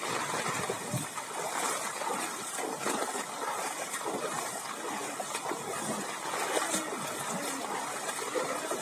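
Floodwater splashing and trickling, a steady watery sound made up of many small irregular splashes.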